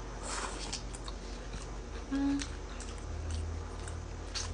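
Close-up chewing of fast food, with wet mouth clicks and a crunchy burst near the start. A short hummed 'mm' comes about two seconds in.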